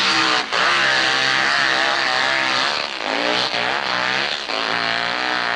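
Hillclimb racing motorcycle engine running hard at high revs, its pitch wavering as the throttle is worked, with a brief cut in revs about half a second in and more dips later on.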